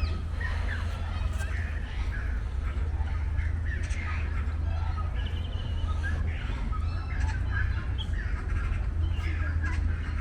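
Many birds calling and chirping at once, short overlapping calls throughout, over a steady low rumble.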